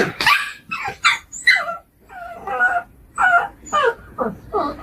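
A dog barking and yipping in quick succession, about a dozen short calls, several sliding down in pitch, with a longer whining call about two seconds in.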